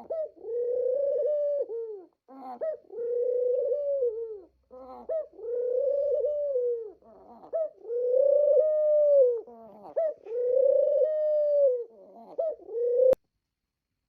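A bird calling: five long, arching calls, each about a second and a half, with short notes in between. It stops abruptly with a click near the end.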